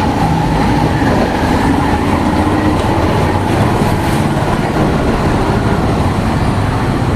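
Steady rumble of road traffic, with engines running close by.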